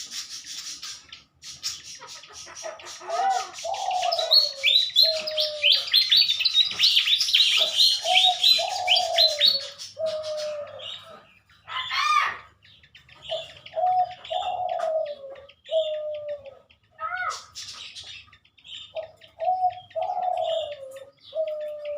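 Malaysian pied fantails chirping: a dense run of high, quick notes for several seconds, then scattered calls, with a sharper call about halfway through. A lower, falling note repeats in short groups throughout.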